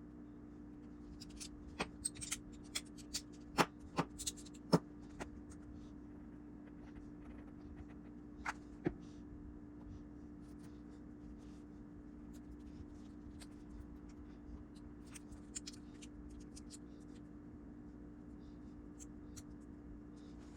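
Light clicks and knocks of small hard objects being handled, several sharp ones in the first five seconds and two more near nine seconds, then only scattered faint ticks, over a steady low hum.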